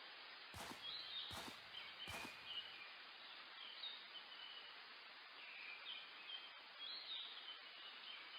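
Faint outdoor ambience of small birds chirping now and then over a steady hiss. Near the start come three short knocks in a row, a little under a second apart.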